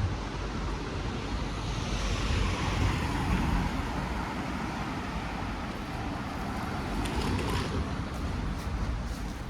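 Street traffic: cars driving past, one passing close with its tyre noise swelling and fading about two to four seconds in, and another going by around seven seconds in.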